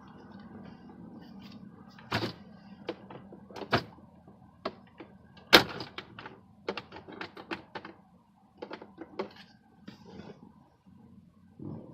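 Irregular clicks and knocks of a screwdriver and plastic dashboard trim being handled and pried around a car's gauge cluster, with the sharpest knock about five and a half seconds in.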